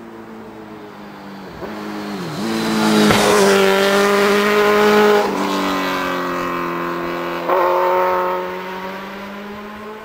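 Suzuki GSX-R1000 K4's inline-four engine through a stubby end-can exhaust, accelerating hard and shifting up through the gears: the pitch climbs, drops at a shift about halfway through and again a couple of seconds later, then the sound fades away.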